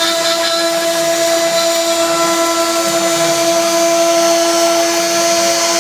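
Alim-Emax CNC machine running a 3D cutting job: the spindle gives a steady whine over a constant hiss of cutting, without breaks.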